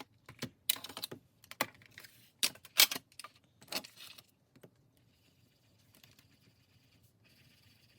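Squares on a paper savings-challenge chart being coloured in by hand: a quick series of sharp taps and scratchy strokes over the first half, then fainter steady scribbling.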